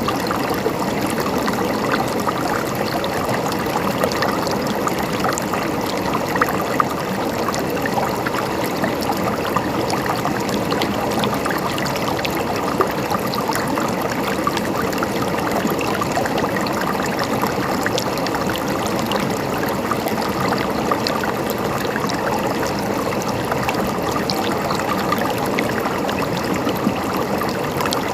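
Water flowing and trickling steadily with a constant gurgle, like a small stream or water running over rocks.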